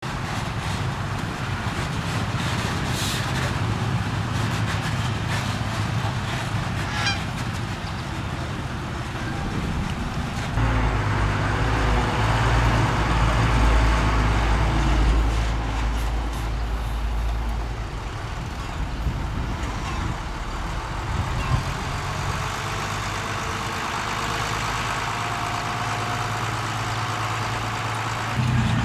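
Diesel engine of heavy earthmoving equipment running steadily, with a few faint knocks in the first several seconds. About ten seconds in, the engine gets louder and deeper for roughly seven seconds, then eases back to a steady run.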